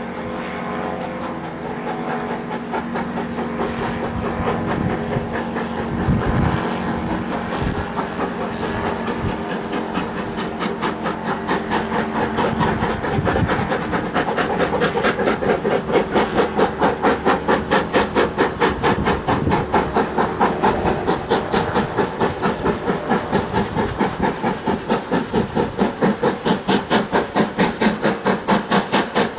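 Steam locomotive working hard, its exhaust beats growing louder and settling into a steady rhythm of about three chuffs a second, with steam hiss.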